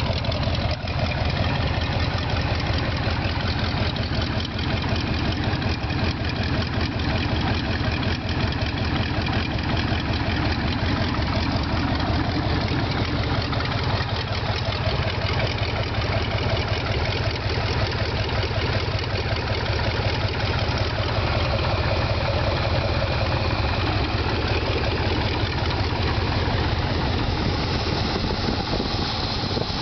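International Harvester V345 gasoline V8 truck engine running steadily at idle on an engine stand, an even, unbroken run with a fine regular firing pulse.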